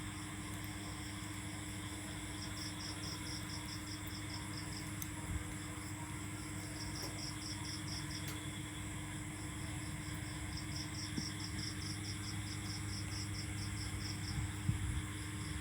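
Insect chirping in rapid pulses, several a second, in trains of a few seconds with short gaps, over a steady low rumble and hum.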